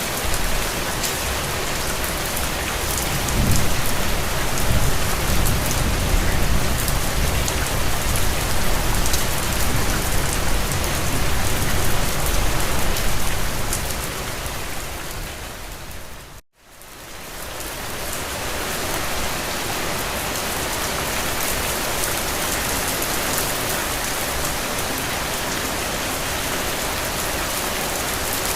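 Steady rain falling, with many small drop patters. A deep low rumble sits under it for about the first half. About sixteen seconds in, the sound fades out to a moment of silence and then fades back up.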